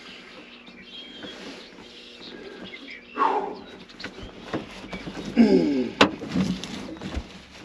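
Trailer wall panel being pushed across linoleum, its back edge dragging and squealing in short squeaks that fall in pitch, about three seconds in and again about five and a half seconds in, with a sharp knock just after.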